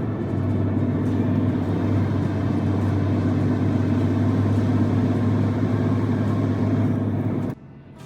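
Truck's diesel engine running steadily with a deep, even hum. It cuts off abruptly about seven and a half seconds in.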